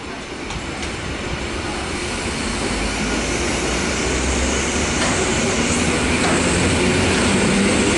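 SKM EN57 electric multiple unit moving along the platform, its wheel and motor noise growing steadily louder.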